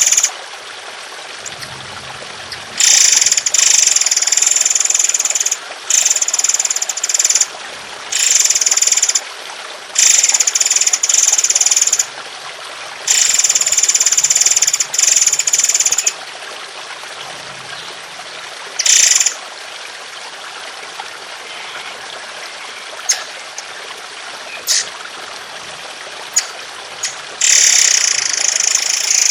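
Songbird song-tutor recording: repeated bursts of harsh, rapid, high-pitched chattering song, most lasting one to three seconds, over a steady trickle of running water. There is a long gap with only the water and a few short clicks before the last burst near the end.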